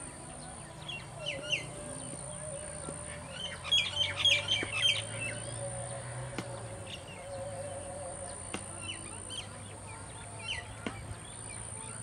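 Birds calling: short chirps scattered throughout, with a quick run of sharp, rapidly repeated notes about four seconds in.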